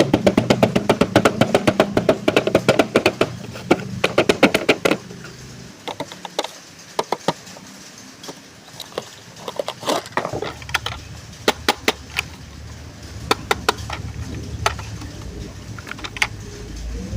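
Clicks and taps from handling a plastic toy ambulance and its packaging: a fast run of sharp clicks, about four or five a second, for the first five seconds, then scattered single clicks and taps.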